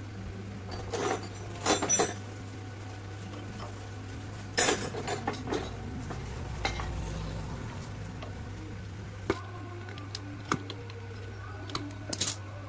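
Metal tools and engine parts clinking and clattering as they are handled, in a few short clusters of sharp clinks with single clicks in between, over a steady low hum.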